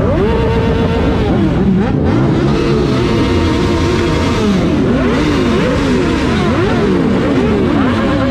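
Several motorcycle engines revving at once, their pitch climbing and dropping again and again. The throttle blips come quicker in the second half.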